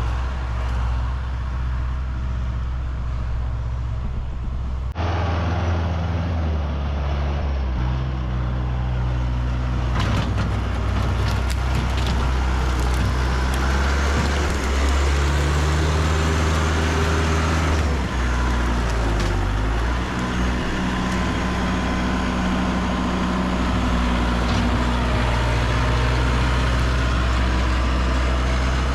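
A tractor engine running steadily. Its note shifts as the throttle and load change, with an abrupt change about five seconds in.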